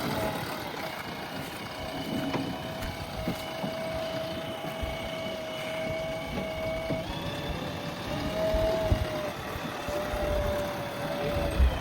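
JCB backhoe loader's engine running under working load, with a steady whine that steps in pitch a few times as the hydraulics work, and a few low thuds, the loudest near the end.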